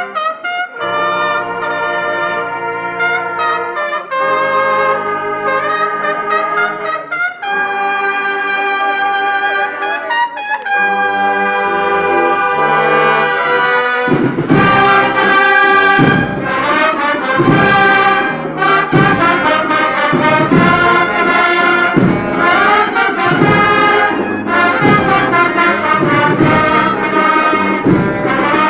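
Brass band playing a slow Holy Week processional march: held brass chords with short pauses at first, then drums come in about halfway and beat steadily under the brass.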